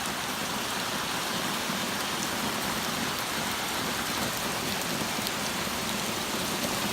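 Torrential rain pouring down and pattering on surfaces in a steady, dense hiss.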